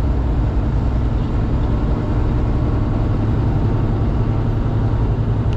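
Semi truck's diesel engine and road noise droning steadily inside the cab while cruising on the highway.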